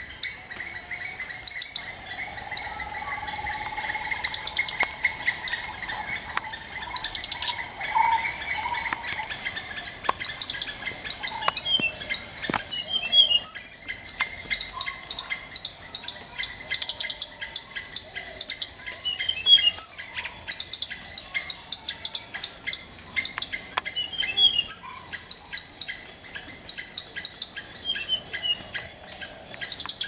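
Forest songbirds chirping, with a short phrase of quick high notes repeating about every four to five seconds over a steady high-pitched hum.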